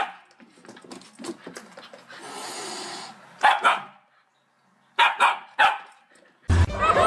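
A dog barking: three or so short, sharp barks spread over a couple of seconds. A loud, dense sound starts suddenly near the end.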